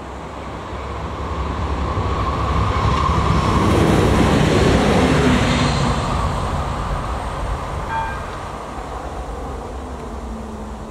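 Class 642 Siemens Desiro diesel multiple unit passing over a level crossing: its engine and wheels on the rails grow louder to a peak about four to five seconds in, then fade as it moves away. A short tone sounds once about eight seconds in.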